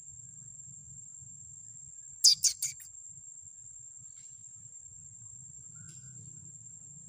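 A bird call of four quick, sharp chirps about two seconds in, over a steady high-pitched insect drone in forest.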